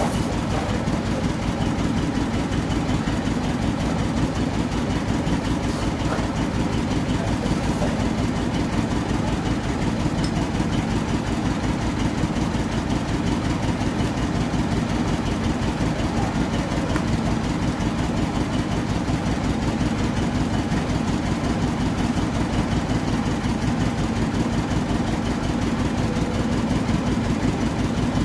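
Rebuilt Toyota 2TR four-cylinder petrol engine idling steadily, with an even, unchanging beat.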